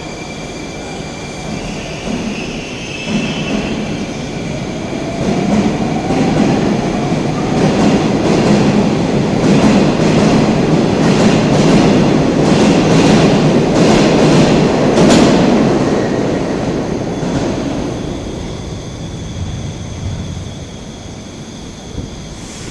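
Train passing through a station: a steady rail rumble grows louder to a peak about halfway through, with a run of wheel clacks at the loudest part, then fades away.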